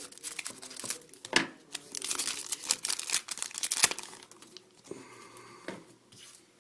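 Hockey card pack wrapper crinkling and being torn open, with card handling; the rustle is busiest in the middle and dies down to faint shuffling near the end.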